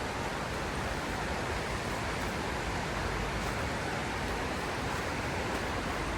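Mountain river water flowing and rushing, a steady, even noise that holds without change.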